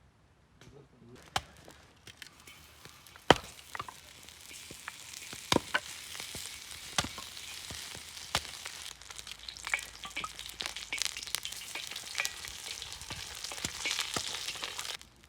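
Meat frying in a hot pan: a sizzle that builds from a few seconds in and keeps going, with sharp knocks of a utensil against the pan scattered throughout.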